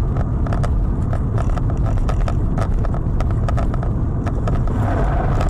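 Loud rumbling road and wind noise of a moving vehicle picked up by a dash camera, with many sharp knocks and rattles scattered through it.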